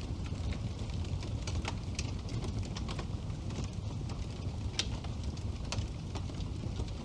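Wood fire burning in a fireplace: a steady low rumble of the flames with irregular sharp crackles and pops from the burning logs, one pop standing out about two-thirds of the way through.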